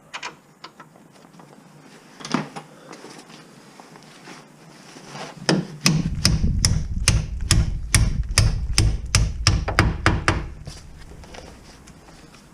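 A run of sharp knocks from hand-tool work, about four a second for some five seconds over a low rumble, after a few scattered clicks.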